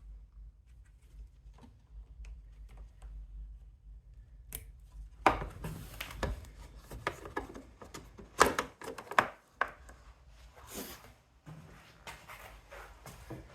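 Irregular knocks and clicks of hard objects being handled and set down, starting about five seconds in after a few seconds of low rumble.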